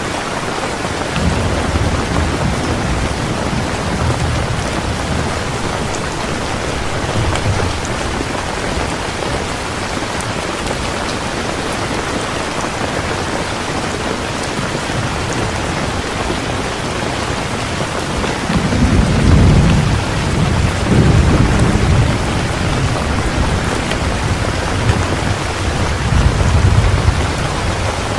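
Heavy rain falling steadily, with thunder rumbling in the background. The rumble swells loudest about two-thirds of the way through and again near the end.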